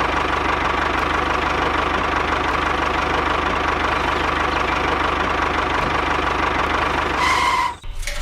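Tractor engine running steadily with a fast, even pulse, then cutting off abruptly near the end.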